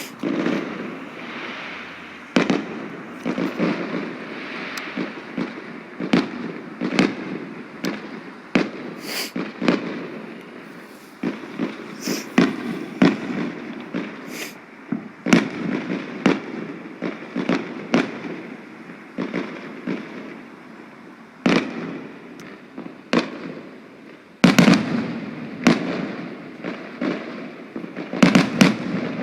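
Fireworks going off in a dense barrage: a steady run of sharp bangs and crackles with rolling echoes between them, and the heaviest cluster of bangs near the end.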